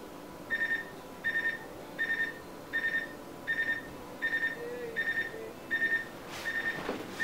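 Refrigerator door-open alarm beeping: short groups of about three high pips that repeat about every three-quarters of a second, starting about half a second in. It is the fridge's signal that the door has been left open too long and the inside is warming up.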